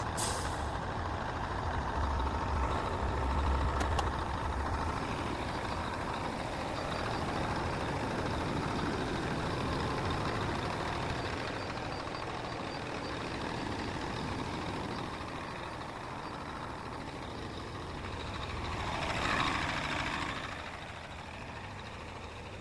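Sinotruk HOWO 371 dump truck's diesel engine running steadily, with a heavy low rumble in the first few seconds and a brief swell in loudness near the end.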